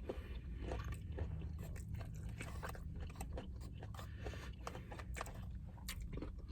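Close-miked chewing of a mouthful of teriyaki chicken, rice and greens, with many irregular wet smacks and small mouth clicks over a low steady hum.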